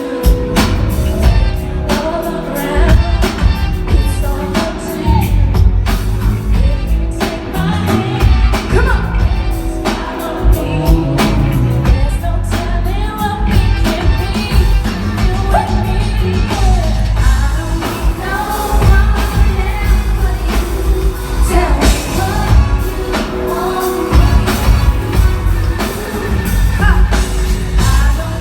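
Live R&B concert music: singers over a loud backing band with a heavy, steady bass beat and drums.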